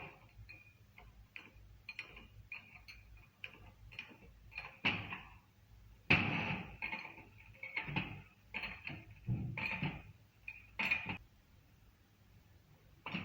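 Irregular metal clicks and clanks of tools and parts being handled, with a run of louder clanks in the middle.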